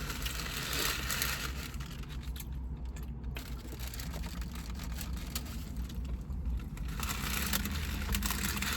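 Crackling and rustling of sandwiches being eaten and handled, heaviest in the first three seconds and again near the end.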